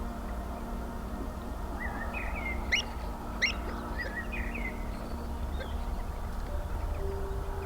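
Wild marsh birds calling: a quick cluster of short chirps a couple of seconds in, with two sharp rising notes as the loudest calls, over a steady low outdoor rumble.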